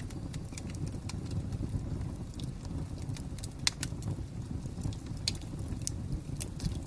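Wood fire crackling: irregular sharp pops and snaps over a steady low rumble of the flames, with one sharper pop about halfway through.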